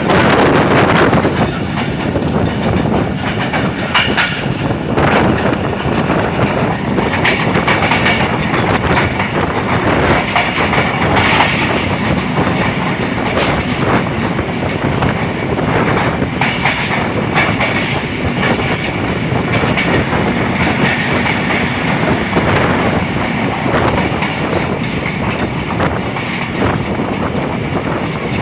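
Passenger train running along the track, its wheels clattering over the rail joints in a steady, loud rumble with scattered knocks.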